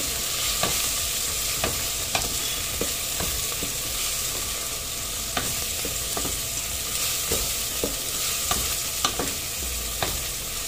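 Onion-tomato masala with ground spices frying in oil in an aluminium pressure cooker, with a steady sizzle, while a wooden spatula stirs it and knocks and scrapes against the pot at irregular moments, about once or twice a second.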